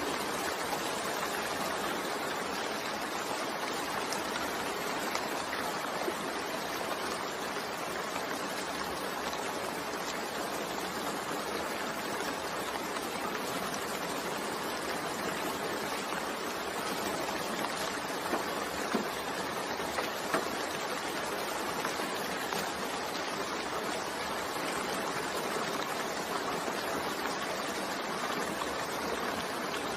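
Steady rain falling, an even hiss with a few sharper drop ticks about two-thirds of the way through.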